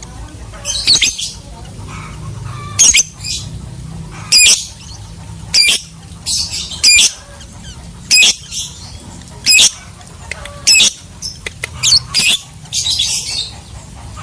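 Lovebird giving loud, shrill, high-pitched chirps, one roughly every second and a quarter, broken by a couple of longer chattering bursts.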